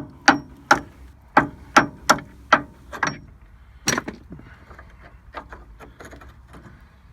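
Hammer blows on metal: about eight sharp, ringing strikes in the first four seconds, two or three a second, then only a few faint taps and clicks. The hammering is on a seized part of a truck's front end that penetrating spray has not freed.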